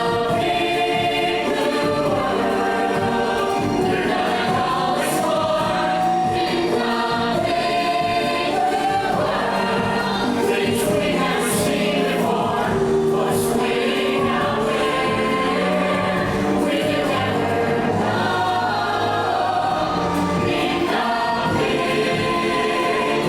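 Recorded show music: a choir singing a melody over orchestral accompaniment, held notes with no spoken words.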